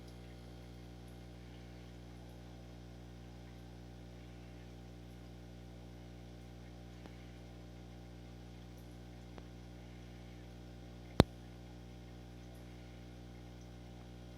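Steady electrical hum, even and unchanging, with a faint tick or two and one sharp, loud click about eleven seconds in.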